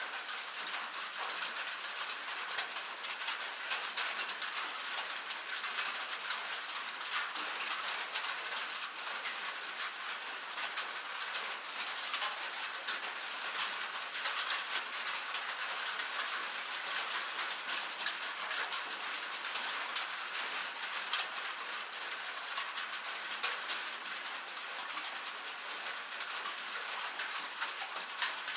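Steady rain drumming on a metal roof: a dense, even patter of countless small drop ticks.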